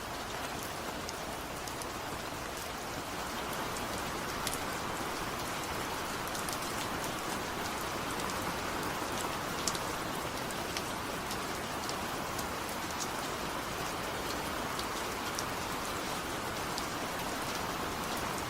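Steady rain, a dense hiss with many small drop ticks scattered through it, growing a little heavier about three seconds in.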